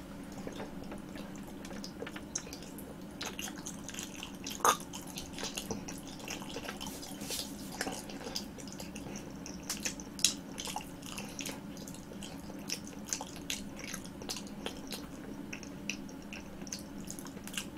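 Close-miked wet chewing of a soft green grape jelly ball: small squishes and smacking clicks scattered throughout, over a low steady hum.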